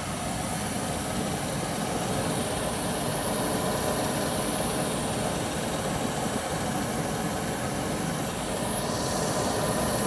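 Goodman gas furnace running with its burners lit: a steady rumble and hiss of the gas flames and the furnace's fans, while the top burner's flame rolls out.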